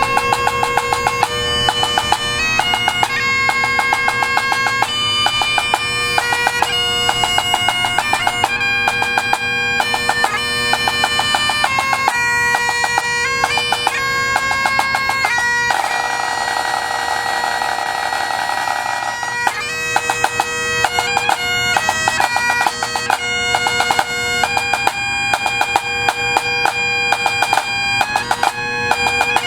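Bagpipe music: a shrill melody with quick ornaments over steady low drones. About sixteen seconds in, a hissy noise runs over it for about three seconds.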